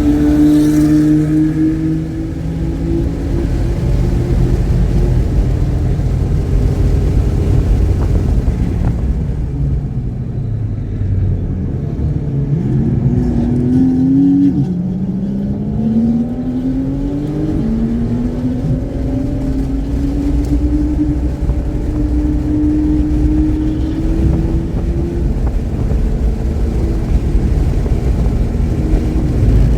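Car engine driven hard on a race track: the revs drop under braking, then climb through the gears with two upshifts, and the engine holds high revs near the end. It runs cleanly, without misfiring.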